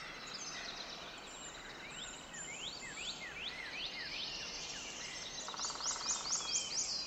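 Forest birds chirping and calling, many short overlapping chirps over a soft steady hiss, slowly growing louder, with a brief rapid trill about two-thirds through.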